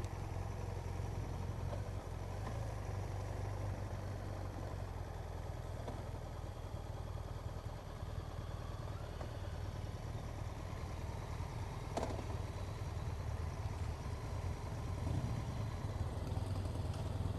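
Motorcycle engine running steadily at low revs, with no revving. A single click is heard about twelve seconds in.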